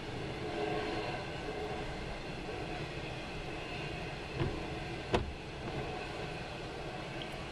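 BNSF intermodal freight train rolling past, its trailer-carrying flatcars making a steady rumble of wheels on rail. Two sharp knocks come about four and five seconds in.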